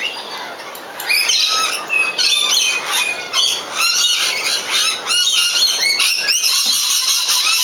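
Birds chirping in a dense, continuous chorus of short, high calls that sweep up and down in pitch, many overlapping. After a brief lull, it picks up about a second in.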